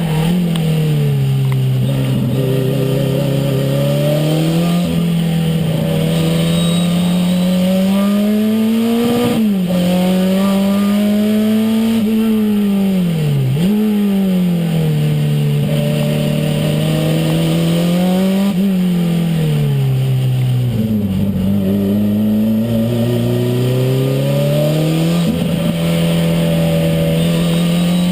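Renault 5 Turbo's turbocharged four-cylinder engine heard from inside the car while driven hard on a circuit. Its pitch repeatedly climbs under acceleration and then drops, sometimes sharply at a gear change and sometimes gradually as the driver lifts off, every few seconds.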